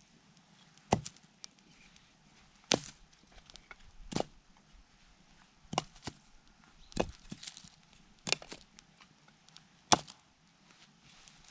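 Firewood being chopped: seven sharp blade strikes into wood, about one every second and a half.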